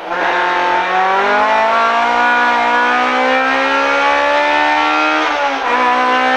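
Honda Civic Type R EK9's four-cylinder engine at high revs, heard from inside the cabin. The revs climb in one long pull, drop sharply at a gear change about five seconds in, then hold high again.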